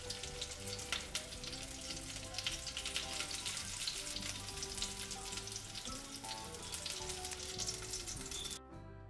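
Breaded chicken pieces shallow-frying in hot oil in a stainless steel pan: a dense, steady sizzle full of small crackles, which cuts off abruptly near the end. Soft background music plays underneath.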